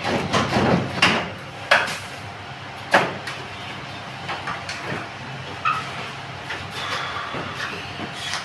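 A few sharp knocks and clatters, the loudest about three seconds in, over a low steady hum.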